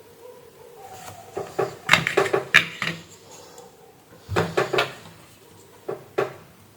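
Small tools and parts clicking and clattering on a workbench during circuit-board repair work. The sounds come in two quick clusters of sharp clicks, followed by two single clicks near the end, over a faint steady hum.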